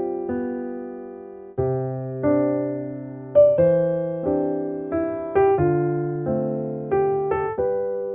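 Background music: a gentle solo piano piece played in slow chords and single notes, each note struck and fading away.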